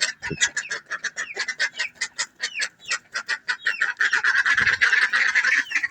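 Flock of domestic fowl calling while feeding, many short calls overlapping, busier and louder in the second half.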